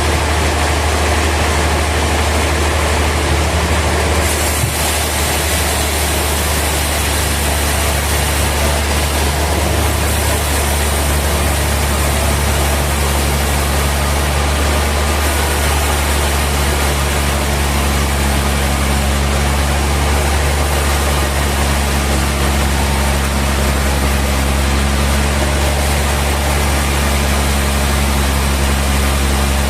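Sawmill machinery running steadily: a loud, continuous low hum under an even hiss, with no separate knocks or impacts.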